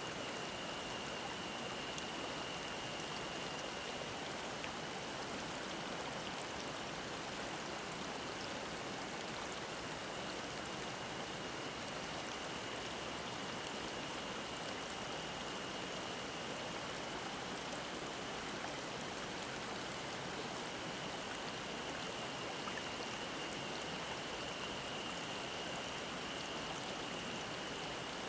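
A mountain stream babbling steadily over rocks, with a cicada's thin, steady high drone running over the water noise.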